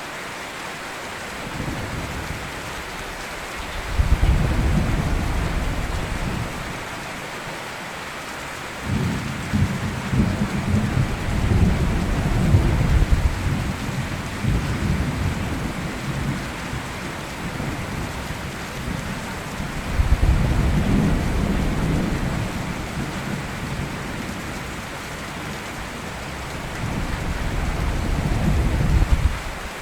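Steady rain with four rolls of thunder, each a deep rumble that swells and fades over a few seconds; the longest rolls on for about five seconds near the middle.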